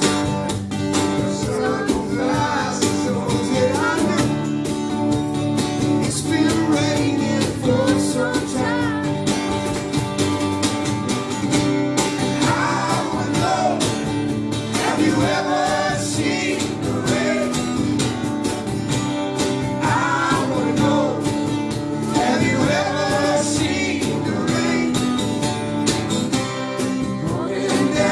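Guitar-backed country-rock song with a singing voice over a steady strummed accompaniment.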